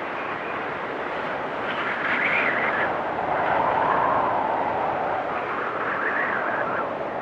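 Wind storm blowing hard, with whistling gusts that wander in pitch: high about two seconds in, lower and loudest around four seconds, and high again near six seconds.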